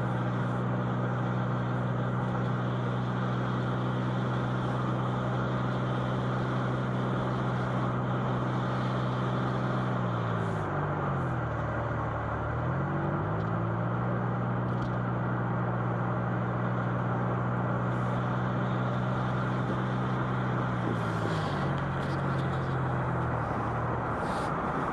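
Car engine and tyre noise heard from inside the cabin while driving, a steady hum whose pitch drops and climbs back about ten seconds in and again near the end.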